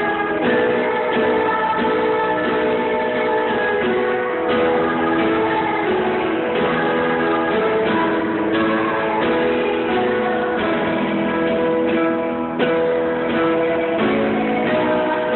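Music led by strummed guitars, with a run of held notes over the strumming.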